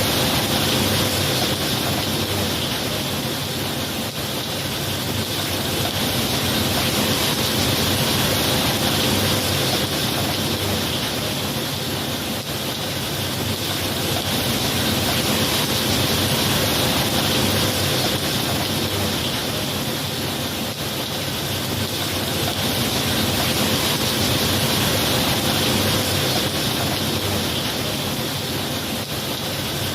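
Rain falling steadily, an even hiss that slowly swells and eases a few times, with no thunderclaps.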